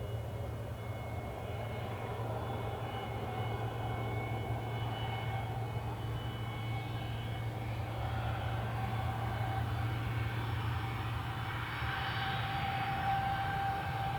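Airbus A380-861's four Engine Alliance GP7200 turbofans at takeoff thrust as it departs: a steady jet rumble with whining tones over it, slowly growing louder.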